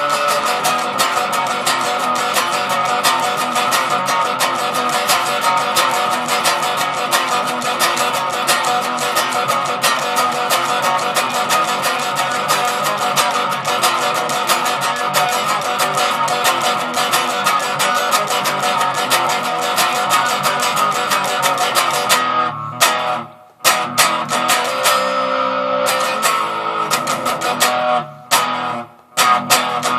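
Les Paul electric guitar played through a plain distortion channel with no effects: a long stream of fast picked notes, broken by two short stops near the end, with held notes ringing between and after them.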